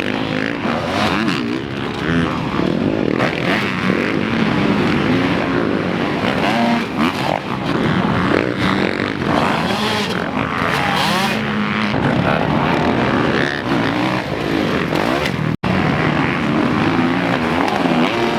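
Motocross dirt bike engines racing on a track, revving up and down repeatedly as the riders work the throttle and shift. The sound cuts out for an instant about three-quarters of the way through.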